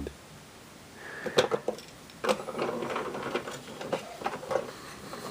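Toy train pieces clicking and knocking together as they are handled on a train table, a few sharp knocks among lighter clatter.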